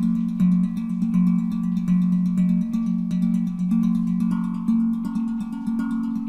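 Handpan tuned to F Phrygian at 432 Hz, played by hand: a rhythm of frequent strikes over a low, sustained ringing note, with higher notes ringing and overlapping on top.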